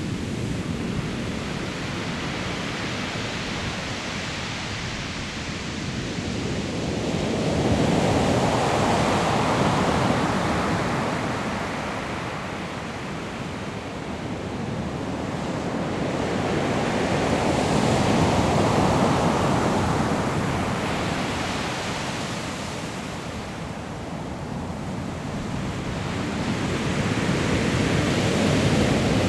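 Sea surf breaking and washing on a pebble shore, swelling and ebbing in slow waves about every nine seconds.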